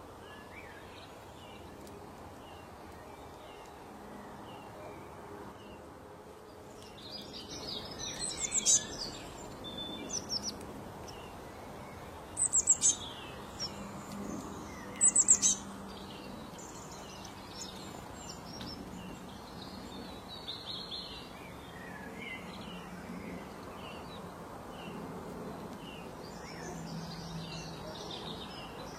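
Birds chirping and singing: many short high calls and trills, the loudest phrases coming about a third and half way through, over a steady background hiss.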